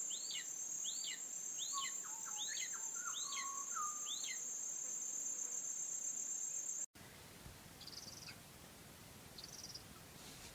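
Nature ambience: a steady high insect trill, with a bird calling a run of about seven falling notes, one every two-thirds of a second. About seven seconds in it cuts to quieter ambience with two short high calls.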